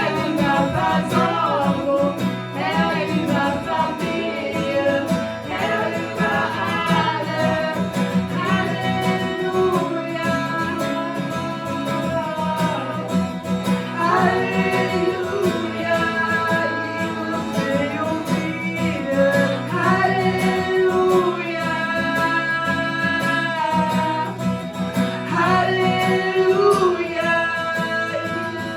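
Worship song: voices singing long held notes with guitar accompaniment.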